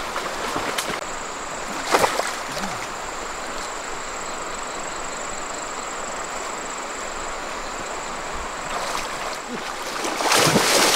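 Steady rush of running water, with a single splash or knock about two seconds in. A thin, high steady whine sounds over it from about a second in until near the end.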